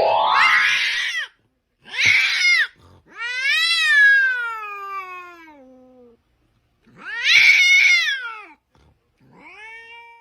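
A domestic cat yowling in a series of drawn-out meows, about five calls. The first rises in pitch, and the longest lasts about three seconds, sliding down in pitch.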